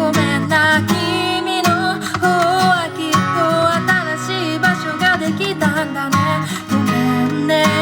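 A person singing while strumming an acoustic guitar.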